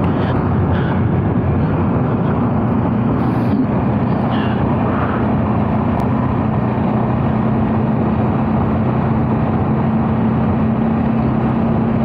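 Bajaj Dominar 400's single-cylinder engine running steadily while the motorcycle rides along, with wind rushing over the microphone.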